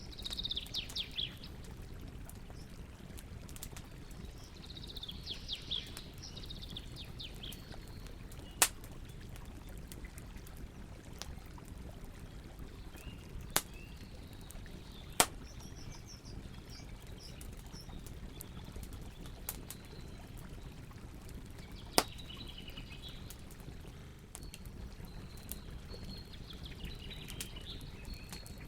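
Campfire burning with a steady low hiss and a few sharp, separate pops from the wood, while birds sing short trilled phrases now and then.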